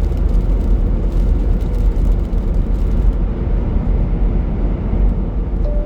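Inside a semi-truck's cab at highway speed: steady engine drone and road rumble.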